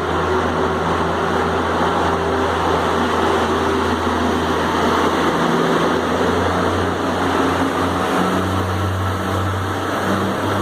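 Class 143 Pacer diesel multiple unit pulling out under power, its underfloor diesel engines running with a steady low drone. The engine note rises slightly about eight seconds in.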